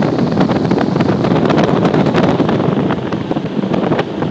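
Wind buffeting the microphone of a boat under way, a loud steady rush with constant crackling gusts.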